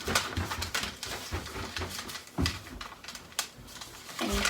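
A sheet of printer paper rustling and crackling as it is folded and creased by hand, close to the microphone, in a run of short irregular crinkles.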